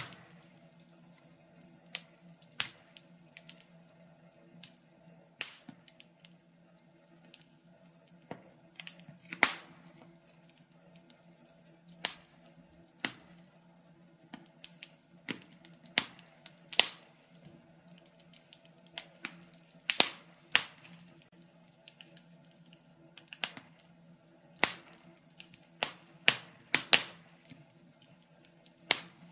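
Wood fire crackling in a fireplace, with irregular sharp pops and snaps, a few of them much louder than the rest. A faint steady low hum runs beneath.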